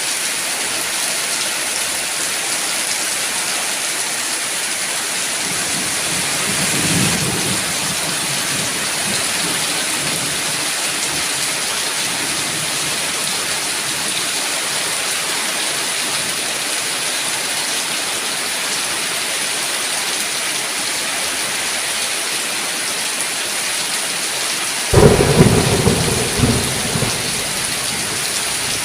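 Heavy rain falling steadily in a thunderstorm. A low rumble of thunder swells and fades about seven seconds in, and a sudden loud thunderclap breaks near the end, rumbling on for a couple of seconds.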